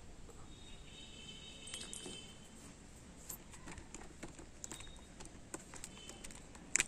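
Metal parts of a dismantled microwave oven magnetron clinking and tapping as they are handled: irregular light clicks, with a brief metallic ring about a second in and a sharper click near the end.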